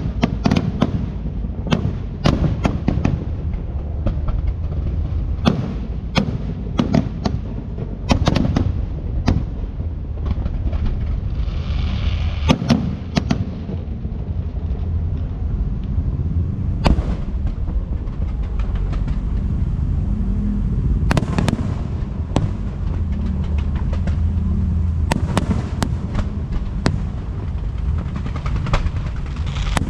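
Fireworks display: many sharp cracks and bangs in quick, irregular succession over a continuous low rumble, with a brief hiss about twelve seconds in.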